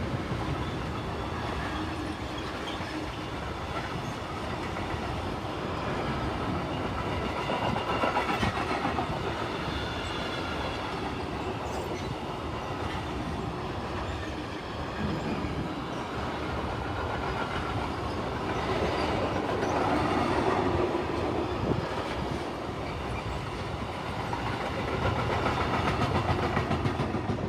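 Freight train of sliding-wall boxcars rolling past, with a steady, loud rumble of wheels on the rails. Near the end the noise begins to fade as the last wagon goes by.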